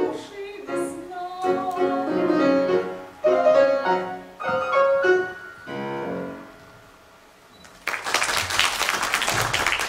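Piano playing the closing chords of a song accompaniment, the notes dying away about seven seconds in. Then applause breaks out abruptly and continues.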